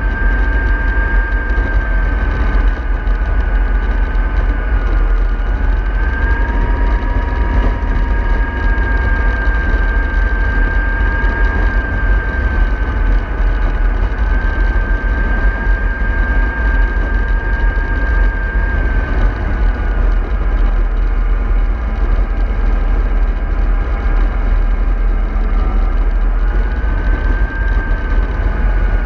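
MAN 24.310 bus running on the road: a steady low engine rumble under a drivetrain whine that steps up in pitch about a fifth of the way in, drops back past the middle and rises again near the end.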